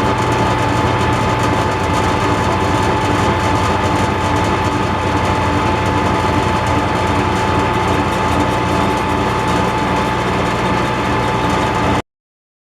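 Metal lathe running under power while a boring bar cuts the bore of a drill press sleeve, a steady machine drone with a constant high whine. It stops abruptly about 12 seconds in.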